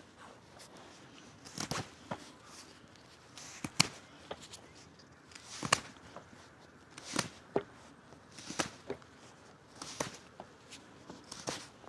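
Small fixed-blade carving knife slicing shavings off a wet wooden stick in a chest-lever grip, a short scraping cut about every one and a half to two seconds.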